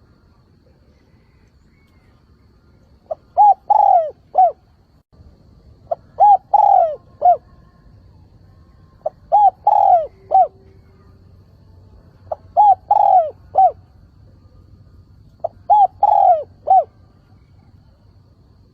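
Spotted dove cooing: five repeated phrases, about every three seconds, each a couple of short coos, then a longer falling coo and a short final one.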